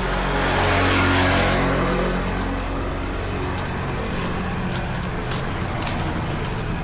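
A motor vehicle engine running steadily, swelling louder for about the first two seconds before settling back.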